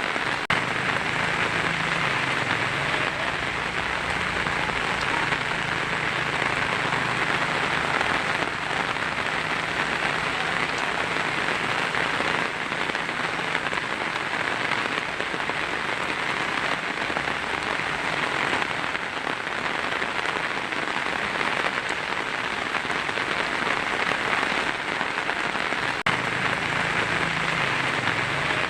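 Heavy rain falling steadily on a tin roof: an even, unbroken patter.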